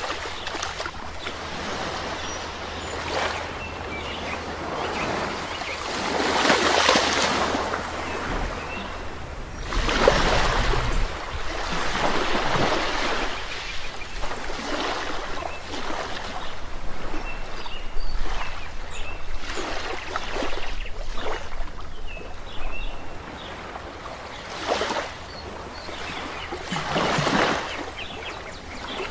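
Sea waves washing onto a shore, several swells rising and fading in turn, with faint short bird chirps now and then.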